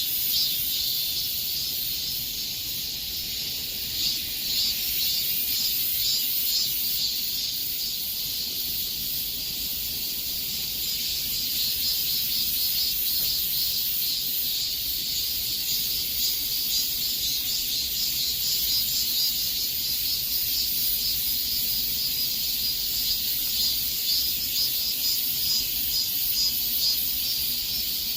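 Cicadas singing in a dense chorus: a steady, high-pitched buzz with fine, rapid pulsing.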